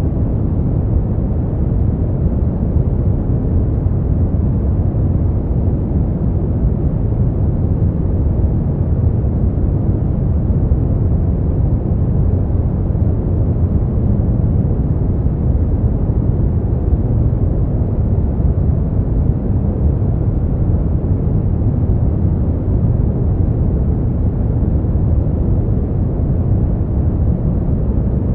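Steady noise played for sleep, an unchanging deep rushing rumble with little hiss, its sound weighted heavily toward the low end.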